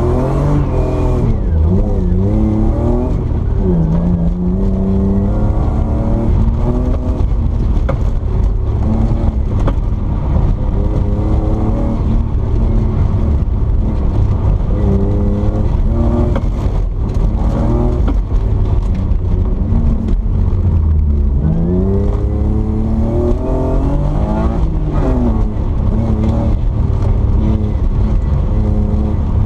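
Car engine revving hard and falling back again and again through gear changes and lifts during a competition run, over a heavy low rumble.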